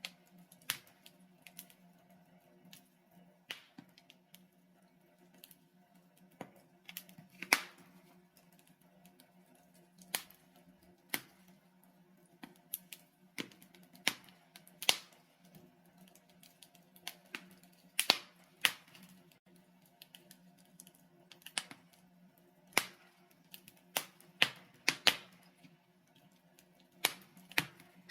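Logs burning in a fireplace, crackling with irregular sharp pops and snaps, a few of them loud, over a faint steady low hum.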